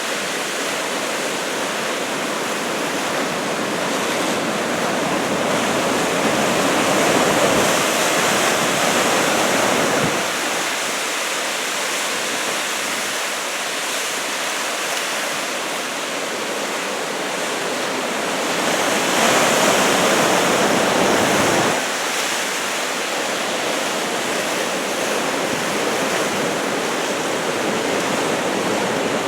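Heavy ocean surf from a 2 m typhoon swell, a continuous wash of breaking waves, swelling louder twice, about a quarter and about two thirds of the way through, before dropping back.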